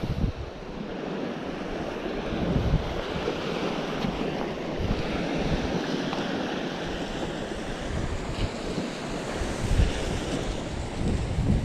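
Sea waves washing against a rocky shore, with wind buffeting the microphone in irregular gusts.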